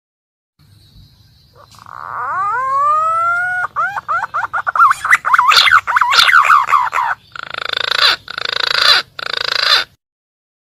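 Green pigeon (punai) call used as a hunting lure: a few whistles that glide upward, then a fast warbling run of whistled notes, ending in several harsher grating notes.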